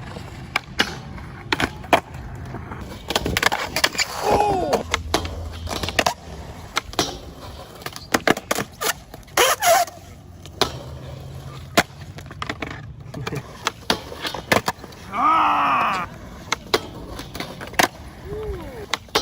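Skateboards rolling with a low rumble and many sharp clacks of boards popping and landing, with two brief voice calls, about four seconds in and again near the end.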